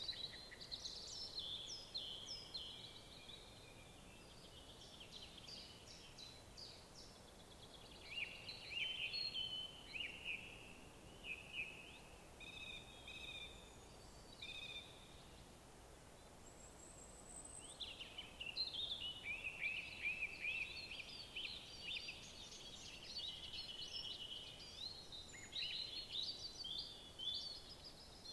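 Songbirds singing in woodland: quick, busy, high song phrases and trills that overlap, easing off briefly in the middle before picking up again, over a faint steady outdoor hiss.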